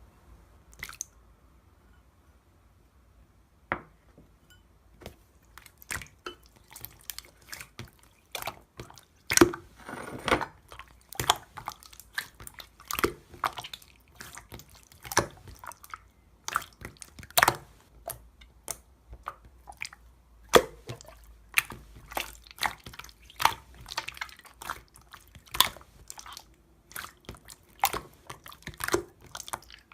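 Clear slime being squished and worked by hand, making irregular sticky clicks and wet pops. The clicks are sparse at first, then come several a second.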